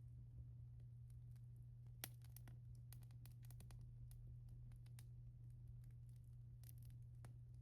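Wood fire crackling, with frequent small, irregular pops and snaps, the sharpest about two seconds in, over a steady low hum.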